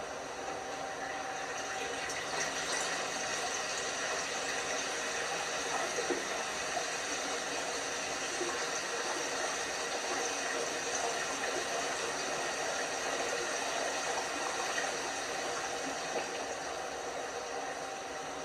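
LG washing machine filling with water: a steady rush of water running into the drum, easing slightly near the end.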